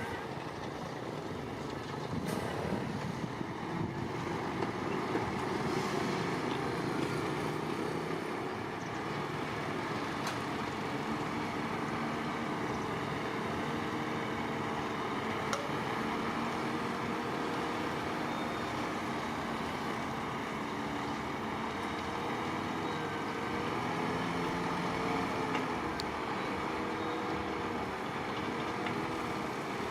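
Heavy diesel engine of earthmoving machinery running under load, its pitch rising and falling as it works.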